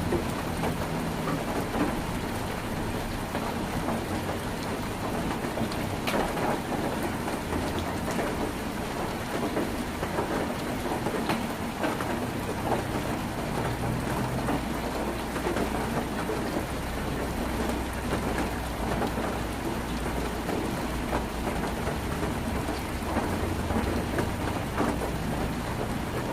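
Heavy rain drumming on a tin roof: a dense, steady patter with many sharp individual drop hits, over a low rumble.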